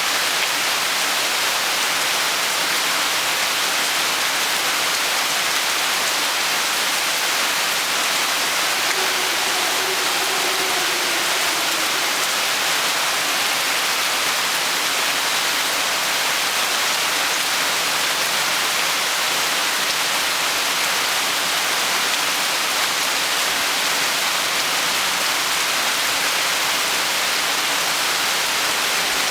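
Steady rainfall, an even unbroken hiss with no let-up.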